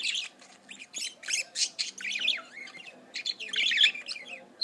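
Budgie chattering: a rapid run of short, high warbling chirps and squawks in bursts, busiest near the end.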